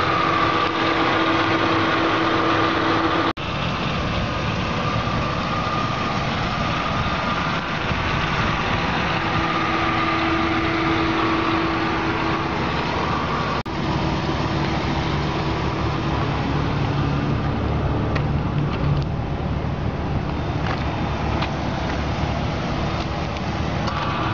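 2006 Ford Mustang convertible's engine idling steadily, with two brief breaks in the sound.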